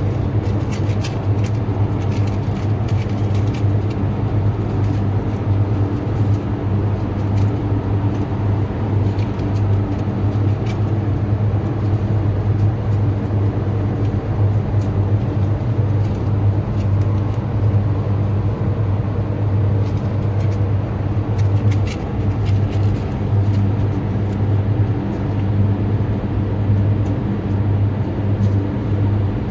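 Steady, loud low hum with a few faint short clicks scattered through it.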